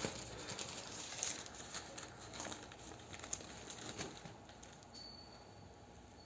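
Faint rustling with scattered light taps and clicks.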